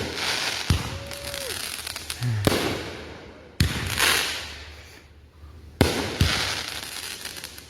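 Consumer aerial fireworks bursting: five sharp bangs one to two seconds apart, each trailing off in a fizzing crackle.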